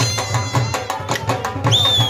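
Traditional folk dance music: a drum beats a steady rhythm under a sustained, high-pitched melody instrument holding long notes.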